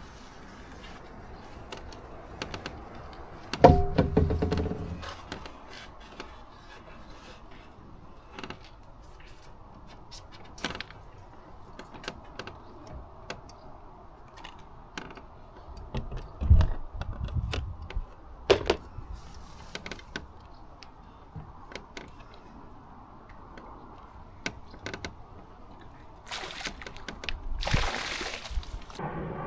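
Scattered knocks and clicks of equipment being handled. There is a loud knock that rings briefly a few seconds in, another heavy thud past the middle, and a short rustling hiss near the end.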